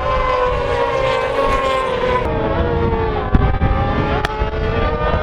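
Several racing motorcycle engines running at high revs at once, their pitch sliding slowly down, with a sharp knock a little over three seconds in.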